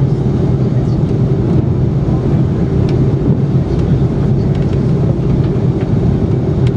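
Steady low rumble and hum inside the cabin of an Airbus A330-300 on the ground before takeoff, from its engines running at low power, with a few faint clicks.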